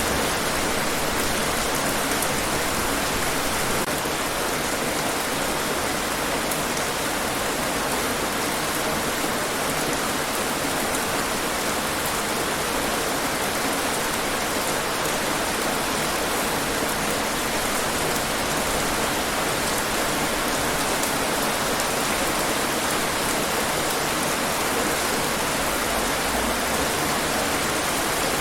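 Steady rainfall, a dense even hiss of rain on hard surfaces with fine scattered drop patter.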